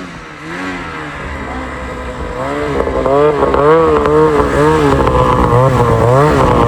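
Snowmobile engine revving up and down in quick, repeated throttle blips, growing louder after about two seconds.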